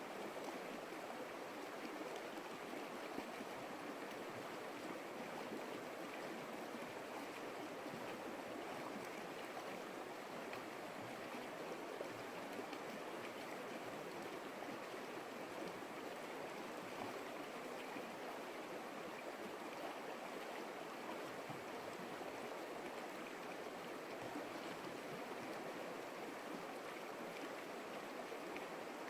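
Steady rushing of a flowing stream, an even wash of water sound with no breaks.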